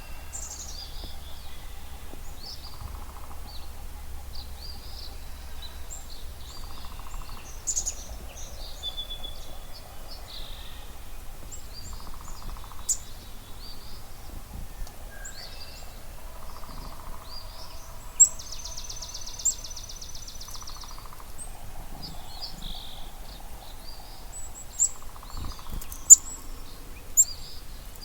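Spring dawn chorus over a marsh: many birds singing and chirping at once, with a fast buzzy trill twice and a lower pulsed call repeating every few seconds. A few sharp, loud high chips stand out in the second half.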